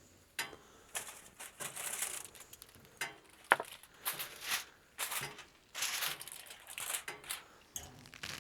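Aluminium foil crinkling in a string of short rustling bursts as it is peeled off a covered pan, with one sharp click about three and a half seconds in.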